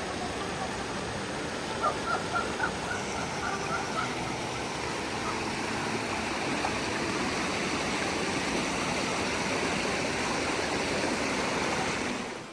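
Rushing water of a forest stream: a steady, dense rush. About two seconds in there are four quick, sharp little sounds.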